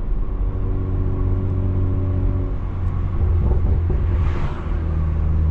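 BMW 340i's turbocharged straight-six with straight-piped exhaust running under way, a steady low drone. A short rushing hiss comes about four seconds in, after which the drone grows stronger and steadier.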